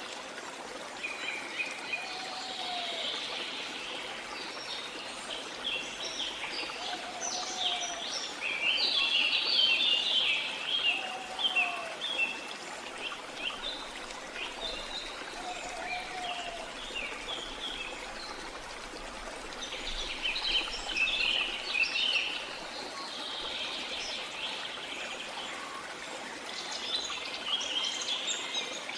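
Steady running stream with many birds chirping and twittering over it in waves, busiest around a third of the way in and again near the end. A lower, short arched call repeats every four to five seconds through the first half.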